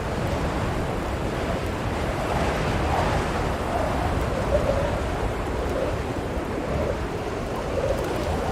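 Blizzard wind blowing steadily, with a faint wavering whistle in it that drifts up and down in pitch.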